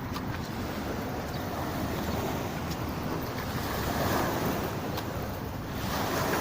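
Sea waves washing onto the shore, swelling and easing, with wind buffeting the microphone.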